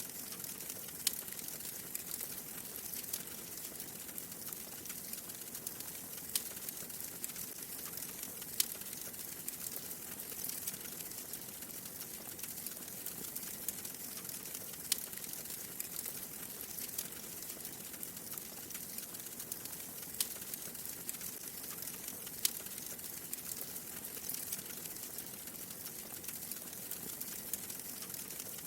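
Wood fire crackling in a fireplace: a steady hiss with frequent small snaps and a few louder pops from the burning logs.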